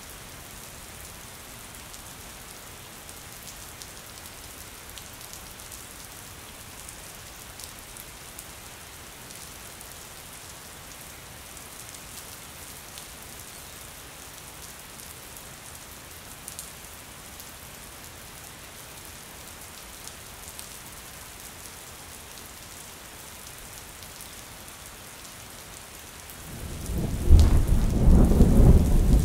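Steady rain falling on a window, with faint scattered drop ticks. About three seconds before the end, a deep rumble of thunder swells in suddenly and becomes much the loudest sound.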